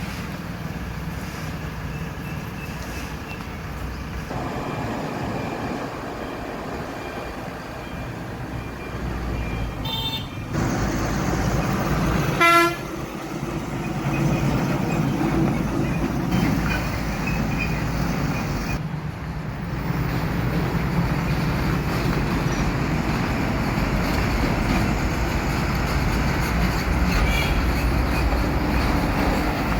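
Truck engine running steadily under road noise, with a short horn toot about twelve seconds in, the loudest moment, and weaker toots near ten seconds and near the end.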